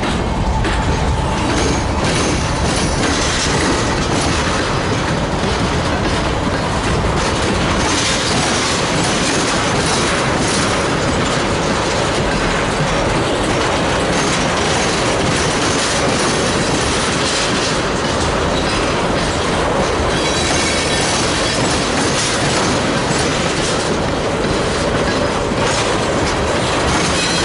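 Freight train rolling past at close range, its steel wheels clicking over the rail joints with some wheel squeal, a steady loud rumble throughout.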